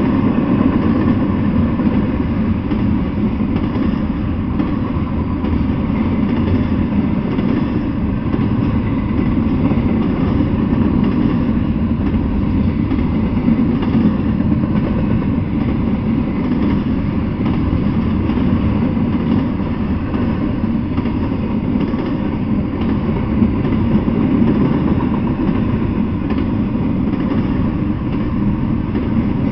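Double-stack intermodal freight train rolling past: a steady low rumble of steel wheels on the rails.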